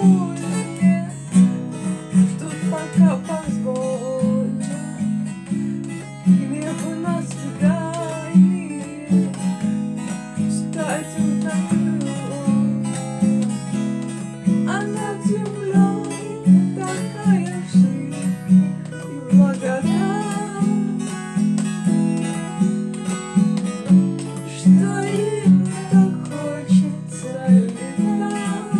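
Acoustic guitar strummed in a steady rhythmic pattern, with a voice singing a melody over it.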